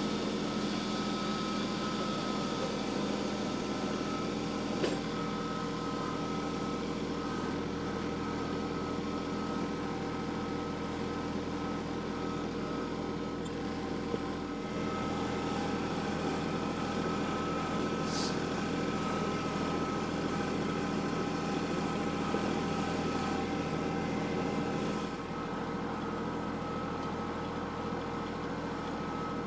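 Vehicle engine running steadily, a constant hum with several steady tones; it eases slightly in loudness about 25 seconds in.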